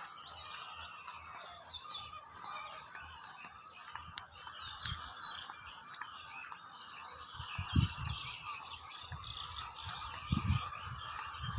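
Birds chirping and calling: many short, high chirps and quick whistled glides over a steady background chorus. A few low thuds come about eight and ten seconds in.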